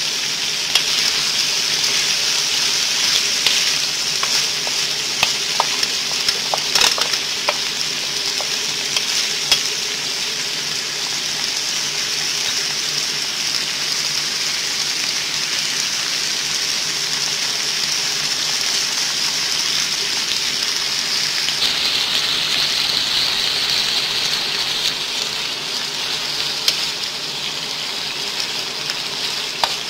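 Chicken and vegetables sizzling as they stir-fry in a pan, a steady hiss, with a wooden spoon knocking and scraping against the pan now and then, mostly in the first third.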